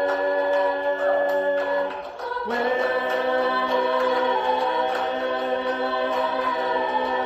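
A cappella voices singing sustained chords without words. The chord breaks off about two seconds in, and a new one begins with a voice sliding up into it.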